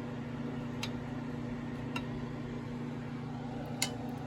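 A spoon clinking lightly against a pot and bowl a few times while scooping boiled quail eggs out of hot water, the last clink the loudest, over a steady low hum from a running kitchen appliance.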